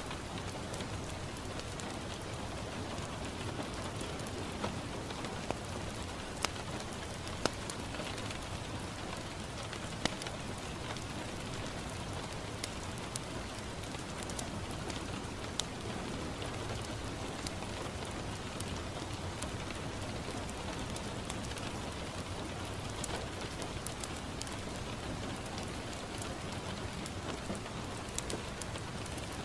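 Steady rain pattering on a window glass, with scattered sharp pops and crackles from a wood fire in a fireplace.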